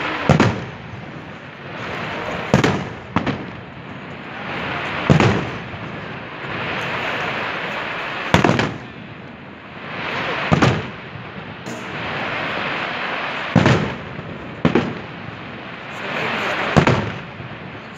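Aerial fireworks shells bursting in sharp bangs about every two seconds, some coming in quick pairs, with a steady rushing noise between the bangs.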